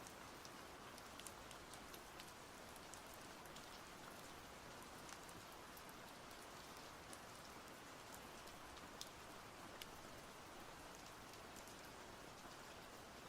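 Steady rain falling, a soft even hiss with scattered sharp drops pattering on a surface.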